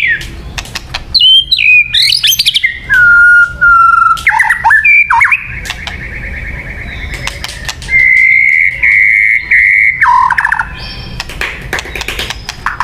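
White-rumped shama singing: a fast run of clear whistled notes sliding up and down, a long harsh buzzy trill, and later a steady held whistle, with sharp clicking notes throughout.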